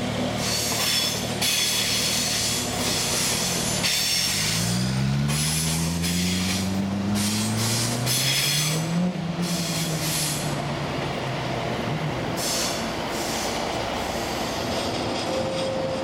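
SBB passenger train rolling past, a steady rumble of wheels on rails with repeated bursts of high wheel squeal. A low hum rises in pitch for several seconds in the middle, then drops away.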